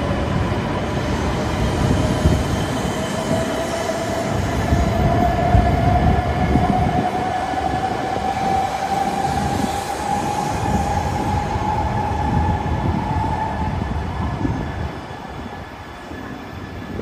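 Shinkansen train moving through the station: a low rumble of wheels on rail, with a motor whine that rises slowly in pitch for about fourteen seconds. The sound fades near the end.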